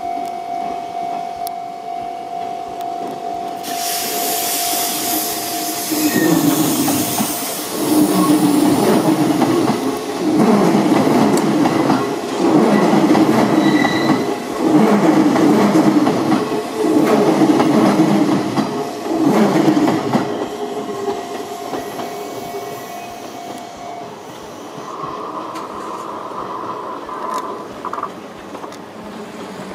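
Hanshin 8000-series electric train passing close by, its wheels clattering over the rail joints in a regular rhythm of loud beats as each bogie goes by, then fading as the train moves away.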